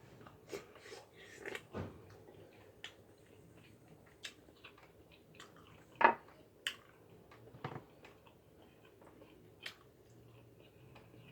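A person eating seafood: chewing with scattered sharp clicks and cracks, the loudest about six seconds in.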